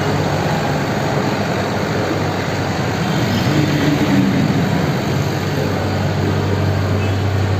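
Motorbike on the move in road traffic: a steady rush of wind and road noise over a low engine hum. A vehicle engine rises and falls in pitch a few seconds in.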